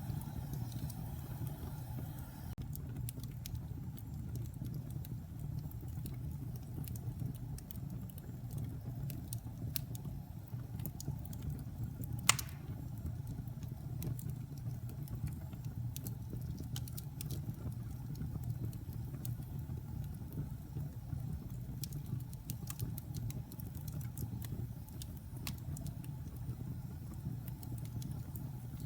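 Log fire burning in a fireplace: a steady low rumble of the flames with scattered small crackles, and one sharp loud pop about twelve seconds in.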